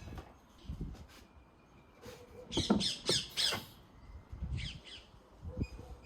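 A bird squawking: a quick run of about four harsh calls about two and a half seconds in, then a shorter pair a second later.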